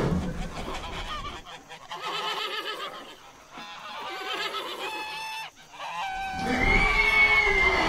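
Domestic geese honking, a run of loud pitched calls with a quieter stretch in the middle.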